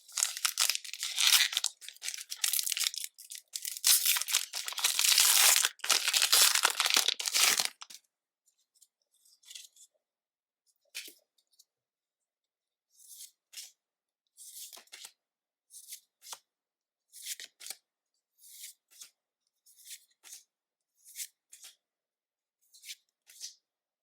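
A foil Pokémon card booster pack wrapper being torn open and crinkled for about eight seconds. It is followed by soft, short flicks about once a second as the cards are slid through one at a time.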